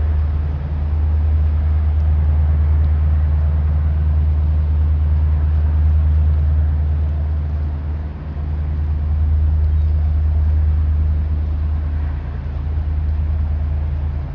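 Diesel propulsion of the St. Marys Cement II tug-barge under way, a steady deep engine drone with a low hum that dips slightly a couple of times.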